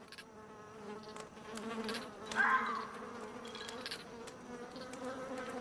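A fly buzzing steadily as a low, even drone. A short voice-like sound comes about halfway through.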